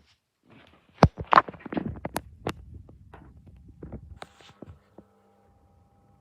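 A run of clicks, knocks and rustles as an Xplear Taurus T8 fan is handled and switched on. About four seconds in, a faint, steady motor hum with a few fixed tones begins.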